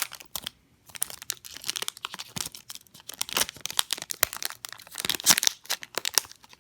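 A Pokémon booster pack's foil wrapper crinkling and tearing as it is opened by hand, in a stream of dense crackles with a brief pause about half a second in.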